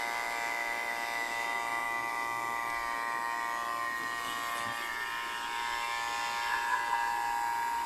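Refrigeration vacuum pump running steadily, a constant electric buzz with a high whine, evacuating the air-conditioning system after a TXV replacement.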